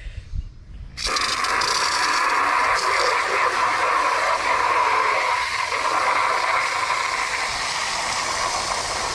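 Garden hose with a spray nozzle turned on about a second in, water rushing steadily into a small bucket.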